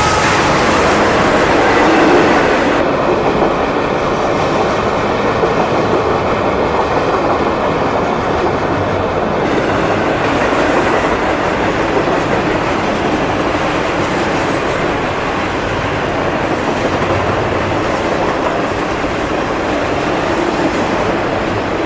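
CSX freight train's cars rolling past, a loud, steady rumble and clatter of wheels on rail.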